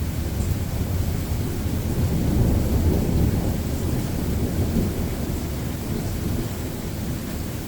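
Thunder rumbling over steady rain. The rumble builds to its loudest about two to three seconds in, then slowly dies away.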